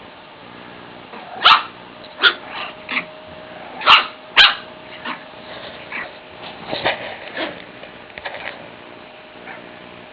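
Small Shiffon puppy barking and yipping: a quick string of about six sharp, loud barks in the first half, then softer, scattered yaps that die away.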